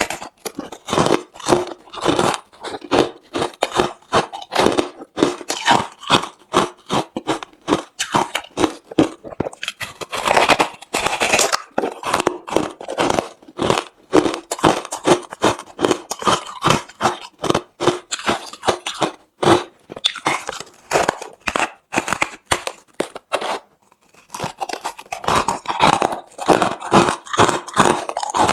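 Close-miked chewing of hard refrozen crushed ice: a rapid, irregular run of sharp crunches as the ice cracks between the teeth, with a short pause about three-quarters of the way through.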